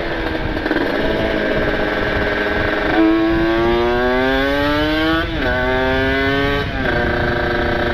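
Kawasaki Ninja 150 RR's ported single-cylinder two-stroke engine running through an open exhaust, the bike accelerating: the revs climb steadily from about three seconds in, drop sharply at an upshift, climb again and drop at a second upshift near the end.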